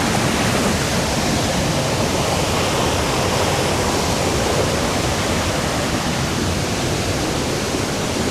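Waterfall water rushing over rocks, a loud steady roar of falling and cascading water with no let-up.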